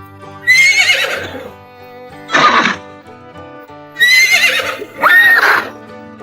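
Horses neighing: four loud whinnies, each falling in pitch, over steady background music.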